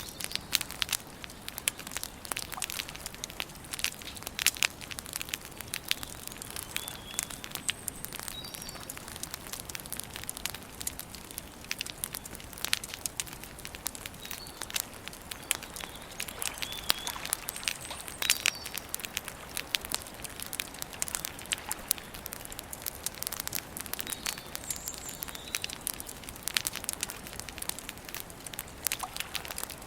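Wood campfire crackling, with many sharp snaps at irregular intervals. A bird gives a few short, high chirps in the background.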